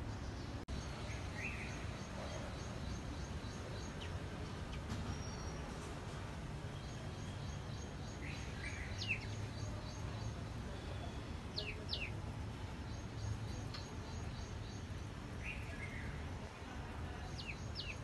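A small bird giving short, sharp chirps that sweep steeply down in pitch, some in quick pairs, every few seconds, over a steady low background rumble.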